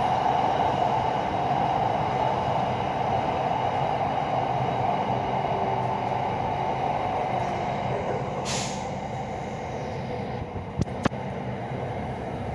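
Electric commuter train of the SRT Red Line, heard from inside the carriage: a steady running noise that slowly eases as the train slows for a station. A short hiss about eight and a half seconds in, and two sharp knocks shortly after.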